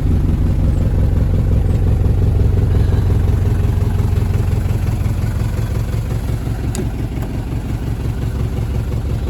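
Mercedes 240D's four-cylinder diesel idling with a steady low, pulsing clatter, heard from inside the cabin. The seller blames the engine's rough running on valves left out of adjustment too long, among other faults.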